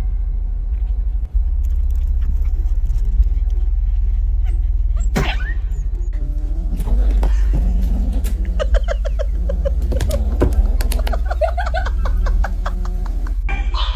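A loud, steady low rumble, like a running vehicle heard from inside. There are a few sharp clicks, and in the second half several short pitched calls.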